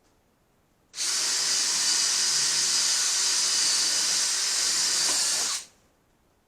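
A power drill runs steadily for about four and a half seconds with a high, hissing whir, starting and stopping abruptly, as in drilling air holes through cardboard shipping boxes.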